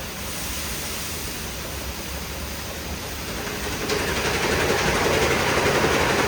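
WashTec SoftCare² Pro rollover car wash in its brush wash cycle: water spray and spinning textile wash brushes working over the car in a steady rushing noise that grows louder about four seconds in.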